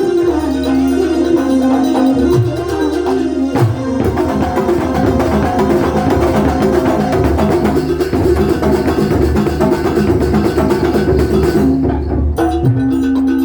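Banyuwangi kuntulan ensemble playing live: dense, fast drum and percussion strokes over steady held melodic notes, with a short break near the end.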